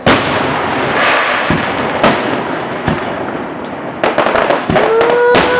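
Aerial fireworks bursting: a sharp bang at the start, then crackling, with more bangs about two seconds in, around four seconds in and near the end. A long, steady held tone begins about a second before the end.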